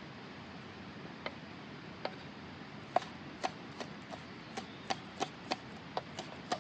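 Chopping with a blade: a run of sharp knocks, sparse at first, then coming about three a second from about three seconds in.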